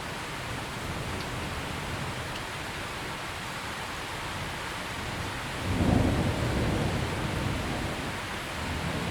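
Steady heavy rain with low rumbling thunder beneath it. A louder peal of low thunder swells about six seconds in and dies away slowly, and a smaller rumble rises near the end.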